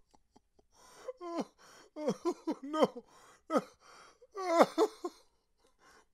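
A person's voice making wordless gasps and short cries, each sliding sharply down in pitch, one after another with breathy intakes between them.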